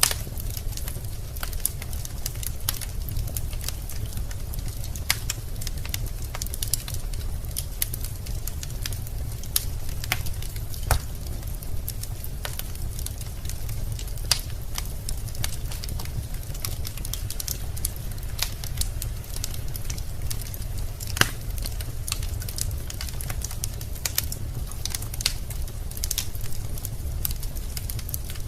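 Wood fire in a fireplace crackling, with irregular sharp snaps and pops over a steady low rumble of the burning logs; a few louder pops stand out.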